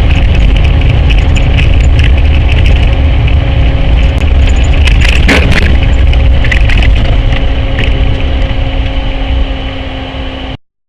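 Dashcam recording of a car on the road: a loud, steady low rumble of road and engine noise with a faint steady hum. About five seconds in comes a short cluster of sharp cracks and knocks, and the sound cuts off abruptly near the end.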